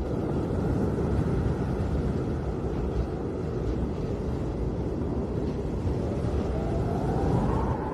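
Snowstorm wind blowing steadily, a low rushing noise, with a faint whistling tone rising near the end.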